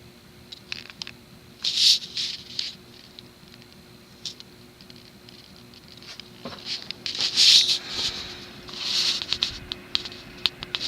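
Tatung spinner ceiling fan running at medium speed with a faint steady hum. Louder irregular scratchy rustling bursts and clicks come and go over it, the loudest about two seconds in and again near the end.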